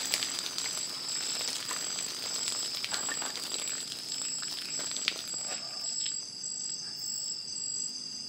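Steady high-pitched buzzing of forest insects, with a crackling hiss full of sharp clicks over it for the first six seconds or so, which then fades.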